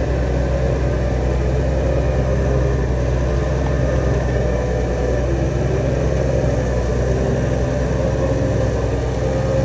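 Heavy diesel engine of earthmoving machinery running steadily at a constant pitch, a low drone with no clear revving or impacts.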